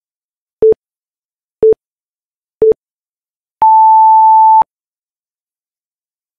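Tabata interval timer beeping the countdown: three short, lower beeps a second apart, then one higher beep lasting about a second that marks the start of a 20-second work interval.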